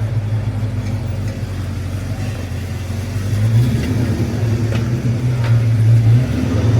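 Muscle car's engine running with a steady low-pitched note, swelling louder twice in the second half as it is revved lightly.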